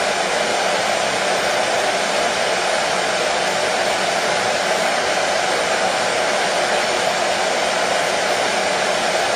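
Hair dryer blowing steadily: an even, unchanging rush of air with its motor hum.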